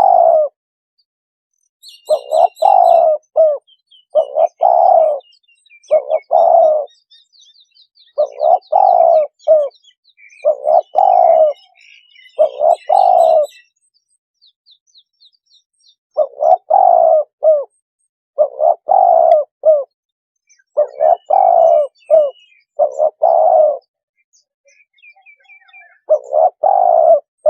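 Spotted dove cooing over and over, each phrase about a second long and repeated in groups with short pauses: a dove decoy call used to lure wild spotted doves. Faint chirping of small birds sounds higher up in the first half and again later.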